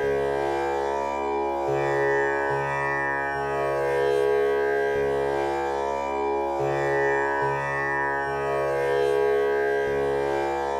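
Tanpura drone tuned to C#, the male scale, its strings plucked one after another in a slow repeating cycle. Each pluck swells into a steady buzzing hum rich in overtones, with no break between notes.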